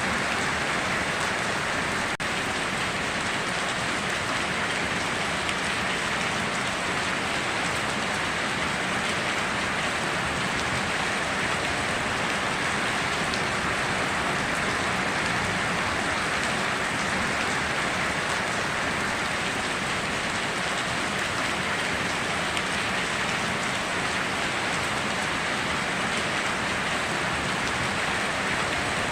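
Steady rainfall in a rainforest: an even, unbroken hiss of rain with no thunder.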